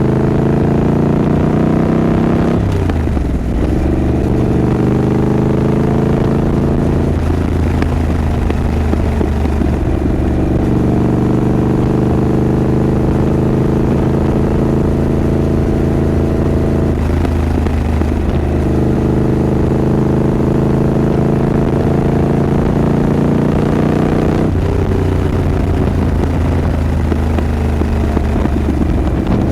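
Triumph Scrambler 900's parallel-twin engine running under load, its pitch climbing gently and then dropping briefly at about four gear changes.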